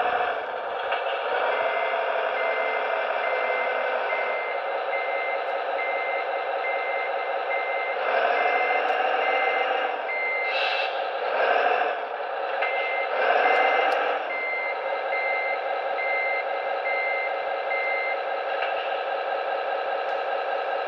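Model truck's electronic sound module on a small speaker playing a Scania R620 diesel engine running and a reverse warning beeper that beeps a little more than once a second in two runs. The engine sound swells louder a few times, with a short hiss about ten and a half seconds in.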